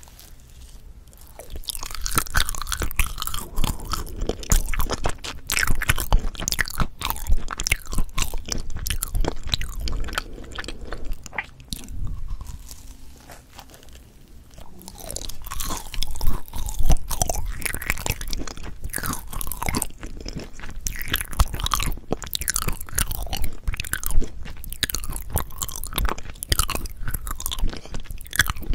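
Close-miked biting and chewing of Korean potato bread with a browned, toasted crust: crunchy bites and wet, crackling chewing. There is a short quieter lull about halfway through before the next bite.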